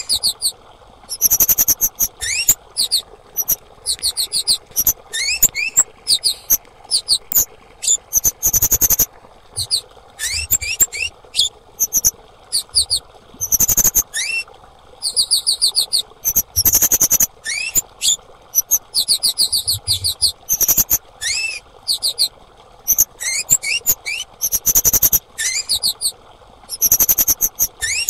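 Female kemade calling: rapid bursts of very high, thin chirps and trills, several bursts a second, with short rising whistles mixed in.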